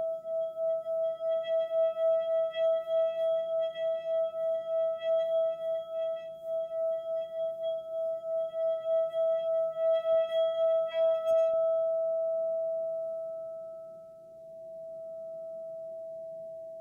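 Sustained ringing tone with a few overtones, wobbling in loudness about three to four times a second. About twelve seconds in, the wobble and upper overtones stop, leaving a single plain tone that fades and swells again.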